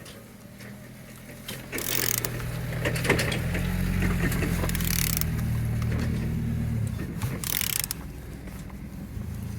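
Used L4V46 engine being turned over by hand, its internals clicking and ratcheting as it rotates, with several short noisy bursts along the way and a steady low hum underneath. It turns freely with compression on all cylinders.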